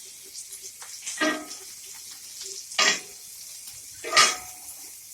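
Hot oil sizzling in a frying pan left from browning meatballs, a steady hiss broken by three brief louder sounds.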